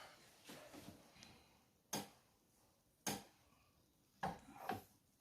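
Two sharp metal clinks about a second apart, then a few softer knocks near the end: hand tools and engine parts being handled during engine assembly.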